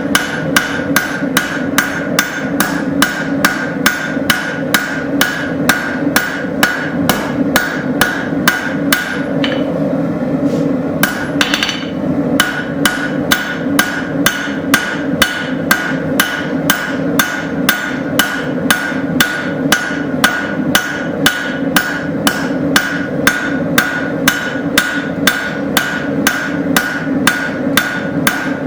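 Steady blacksmith hammer blows on hot steel over an anvil, about three a second, each with a short metallic ring, as a railroad spike blade is drawn out and thinned. The rhythm breaks briefly about ten seconds in, then resumes.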